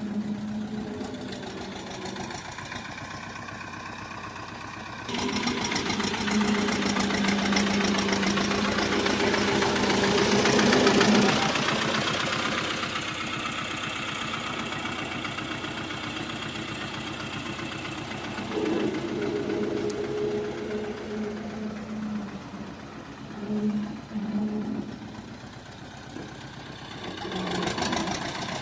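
HMT tractor's diesel engine running with a knocking beat. It picks up sharply about five seconds in, is loudest around eleven seconds, then settles to a steady run, with a few uneven swells and dips toward the end.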